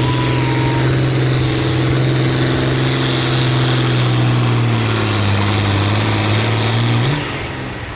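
Diesel engine of a hot stock pulling tractor running at full throttle under load, its pitch sagging slowly as it pulls. About seven seconds in the throttle comes off: the engine note jumps briefly and then drops away, leaving a high whine that falls in pitch.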